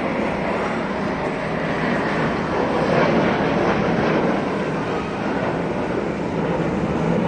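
Low-flying fixed-wing aircraft passing over, a dense steady engine noise that swells to its loudest about three seconds in and then eases slightly.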